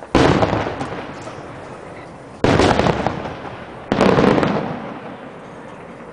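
Three aerial fireworks shells bursting with loud bangs, the second about two and a half seconds after the first and the third a second and a half later, each fading away in a long echo.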